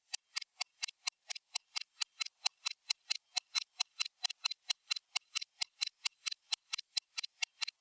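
Stopwatch ticking sound: sharp, even clicks at a steady rate of about four to five a second.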